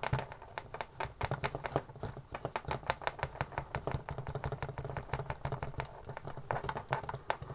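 Plastic arm joint of a vintage action figure being worked back and forth, giving a run of rapid, irregular clicks, several a second, as fluid is worked into a loose rotating joint to tighten it.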